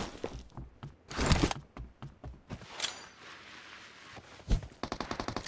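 Video game gunfire: a few scattered shots and impacts, then rapid automatic fire starting near the end, at an even pace of several rounds a second.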